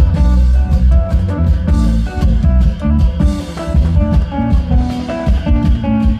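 Thai klong yao prayuk band playing through an amplified sound system: a quick plucked-string melody over heavy bass and steady drum beats.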